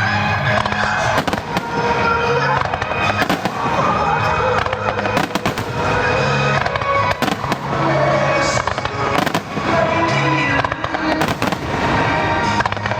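Starmine fireworks display: a rapid, irregular barrage of shell bursts and bangs, with music playing under them throughout.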